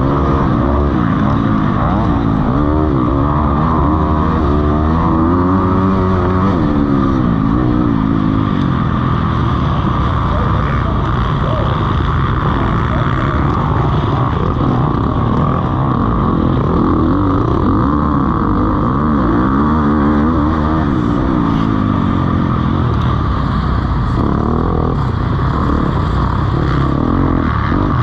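Motocross bikes racing, their engines revving up and falling back over and over, several at once with pitches crossing.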